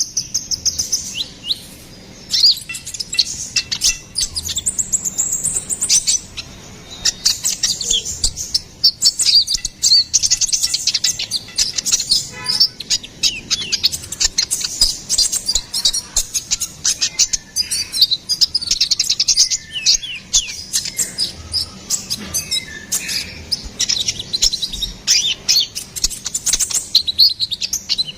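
Konin (kolibri ninja), a small songbird, singing without let-up: fast, high twittering made of quick chirps and short trills, with barely a pause between phrases.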